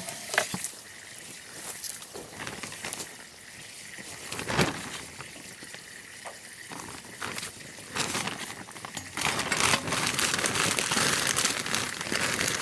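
Rustling and crackling of compost and soil being worked by hand in a garden bed, with scattered light knocks, turning into a denser, continuous crackle from about eight seconds in.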